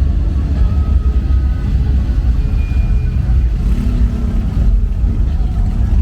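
Steady low rumble of car engines in the street, with a few faint, brief higher tones over it.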